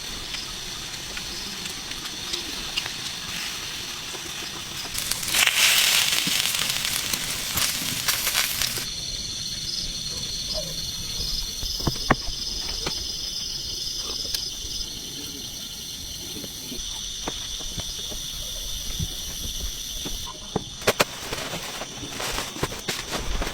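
Food sizzling in a pan over a wood fire, with a louder surge of hissing about five seconds in that cuts off sharply near nine seconds. After that the fire crackles with scattered sharp snaps over a steady high insect chorus.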